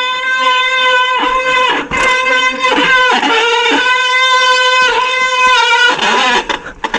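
Bicycle brake squealing loudly while braking downhill: a steady high squeal with many overtones, breaking off briefly several times and dying away near the end.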